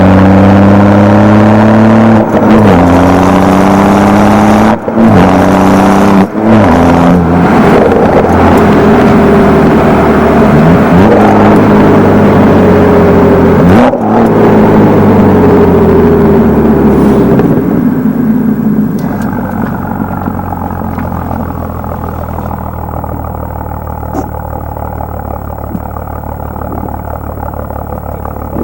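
BMW F30 335i's N55 turbocharged inline-six through a Wimmer stainless-steel exhaust, 3-inch from the catalytic converter, in sport mode, accelerating hard. The note rises in pitch, with brief dips between pulls that fit gear changes. About two-thirds of the way in the engine eases off and carries on at a quieter, steadier level.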